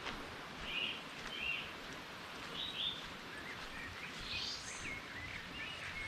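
Wild birds calling in short chirps and trills, several voices overlapping, over a steady background hiss.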